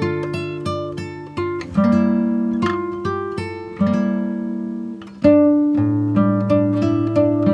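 Instrumental music on a plucked string instrument, likely acoustic guitar: notes and chords are plucked and left to ring out, with a new chord struck every second or so.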